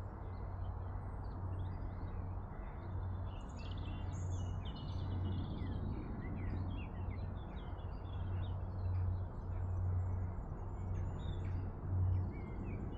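Small birds chirping and tweeting in many short calls, over a steady low rumble.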